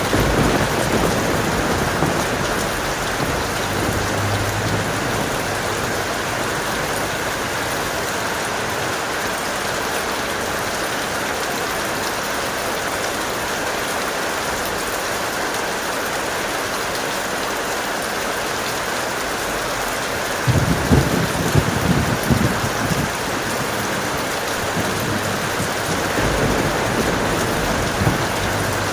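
Steady heavy rain falling, with a low rumble of thunder lasting a couple of seconds about two-thirds of the way in.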